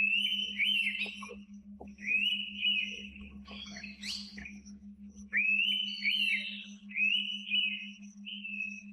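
Indian pitta whistling: about five clear whistled phrases, each under a second, over a steady low pulsing hum.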